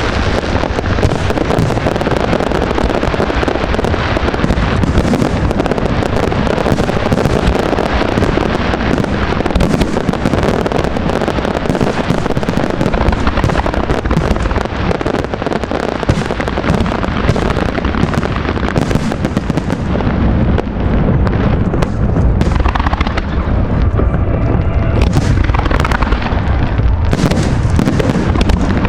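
A fireworks display: aerial shells and crackling fireworks bursting in rapid, continuous succession, with the dense barrage thinning a little after about twenty seconds.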